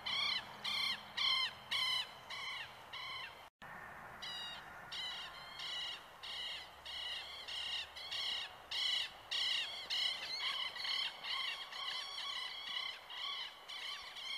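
A bird calling in a rapid, steady series of short, harsh notes, about three a second, breaking off briefly about three and a half seconds in, over the steady rush of river rapids.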